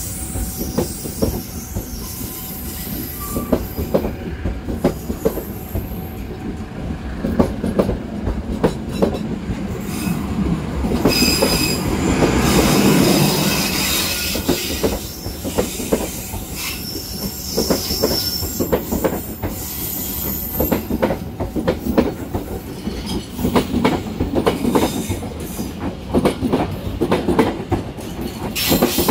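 Indonesian passenger train coaches rolling past close by, their wheels clacking over rail joints in irregular runs, with brief high-pitched wheel squeals.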